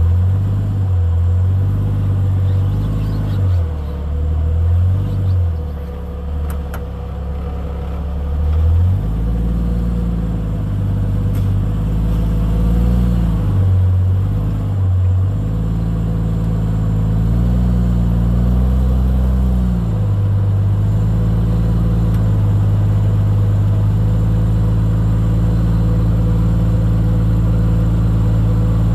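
Jeep Cherokee XJ's engine working at low speed over rocks, the revs rising and falling again and again as the throttle is worked, then holding steady for the last several seconds.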